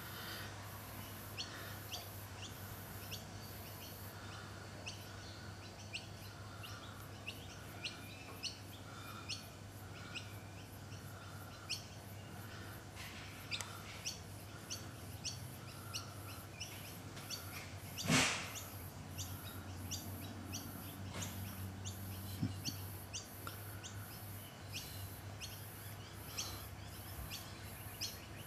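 Outdoor background of small birds chirping, many short high chirps scattered throughout over a steady low hum, with one brief louder burst of noise about eighteen seconds in.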